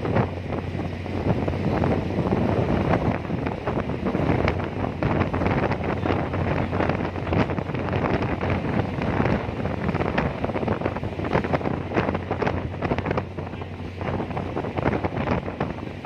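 Strong wind buffeting the microphone in gusts, over the steady low drone of a car ferry's engine.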